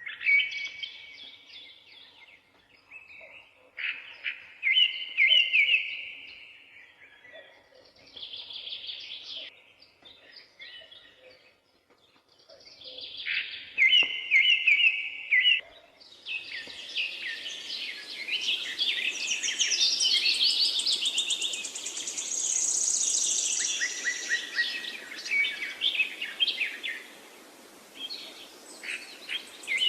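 Several songbirds singing in short, repeated chirping phrases, well spaced at first. About halfway through they give way to a dense, overlapping chorus with high trills over a steady hiss.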